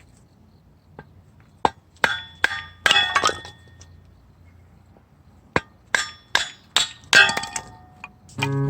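Hammer blows with a metallic ring, plausibly driving firewood down onto a homemade upturned fixed axe blade to split it. The blows come in two quick runs of about five or six, a couple of seconds apart, and acoustic guitar music starts near the end.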